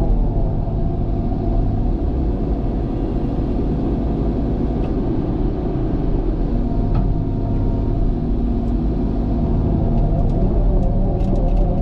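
Diesel engine of a heavy earthmoving machine running steadily while it works, with a few light metallic clicks near the end.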